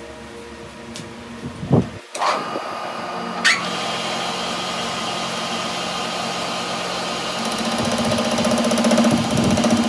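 A couple of knocks, then a workshop machine's electric motor starts about two seconds in, speeds up and runs steadily with a humming whine that grows louder near the end.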